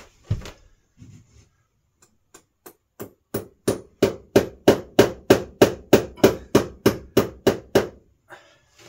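Hammer driving a small nail in: a few light taps, then a steady run of sharp blows at about three a second for some five seconds.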